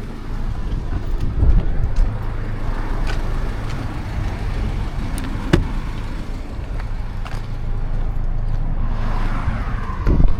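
Truck engine idling steadily, with a few sharp clicks and knocks over it, the clearest about five and a half seconds in.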